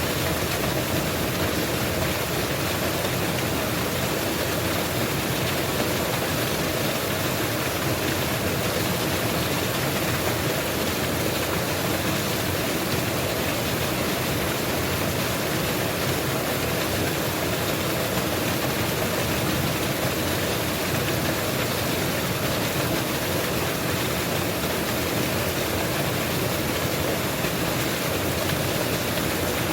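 Mountain waterfall: water falling and splashing in a steady, even rush with no change.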